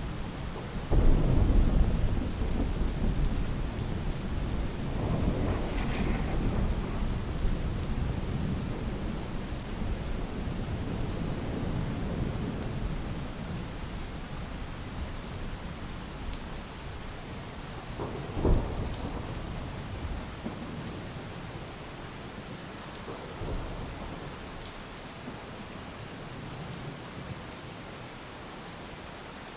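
Steady rain falling, with thunder rolling through it: a loud low rumble about a second in that rolls on and slowly fades, a short sharp crack about two-thirds of the way through, and a fainter rumble after it.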